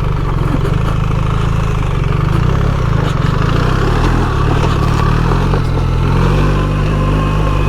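BMW R 1300 GS's boxer twin engine running at steady revs while riding a stony trail, with a few scattered clicks.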